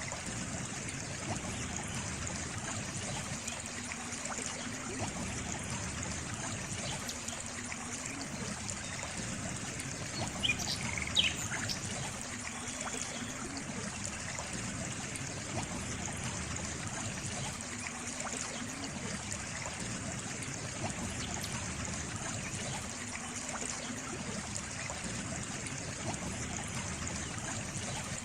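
Water trickling and running steadily, like a small stream. A brief bird chirp comes about ten and a half seconds in and is the loudest moment.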